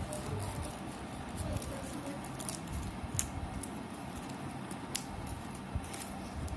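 Scattered small clicks and taps over a steady low hum, sharpest about three seconds in and again near five and six seconds.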